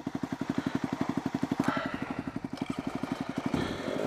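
Dirt bike engine idling with a rapid, even pulse, then revving up near the end.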